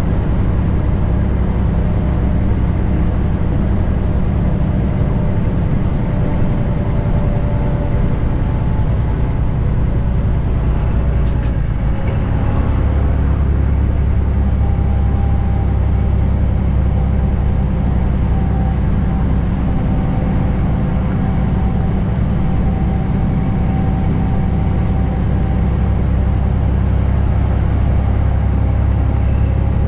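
Detroit DD15 inline-six diesel of a 2021 Western Star 4900, pulling about 26,000 lb and running steadily at cruising speed. About twelve seconds in there is a click, and the engine's low note drops and stays lower.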